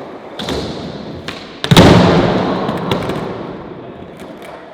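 Skateboard wheels rolling on pavement with a few light clicks, then a loud clack of the board hitting the ground a little under two seconds in, followed by rolling noise that slowly fades.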